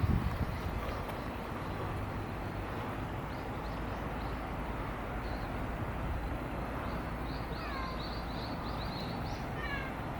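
Steady outdoor background rumble, with a small bird's rapid run of high chirps and a few quick falling whistles near the end.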